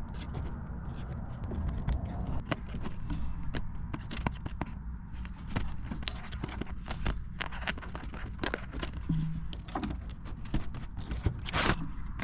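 Irregular clicks, knocks and scrapes, dozens of them, over a low steady rumble.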